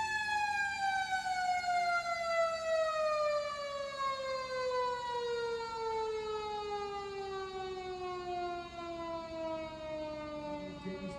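Fire engine's mechanical siren winding down: one long wail, its pitch falling slowly and steadily after peaking at the start.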